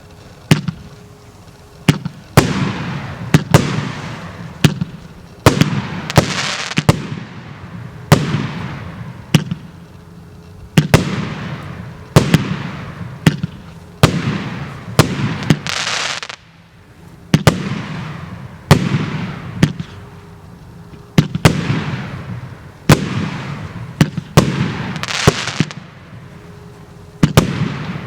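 Joker "Admiral" JF C30-36/06 firework cake, 36 shots of 1.2-inch calibre, firing in sequence. Sharp bangs come about once a second, each followed by a fading crackling hiss.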